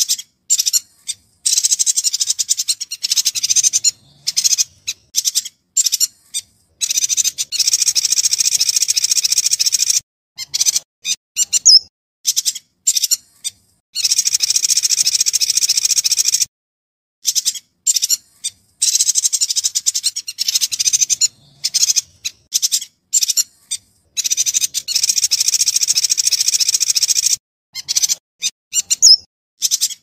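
Yuhina singing: fast, high-pitched chattering and twittering in bursts of a second to a few seconds, separated by brief pauses.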